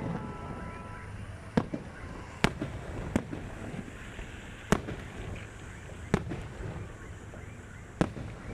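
New Year fireworks bursting, sharp separate bangs at uneven intervals of one to two seconds, about six in all, over a steady low rumble.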